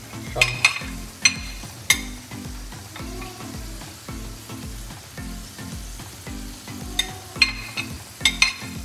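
Chicken and onions sizzling as they fry on a flat tawa, with sharp clicks and scrapes of a spatula stirring against the pan, in a few quick bunches in the first two seconds and again near the end.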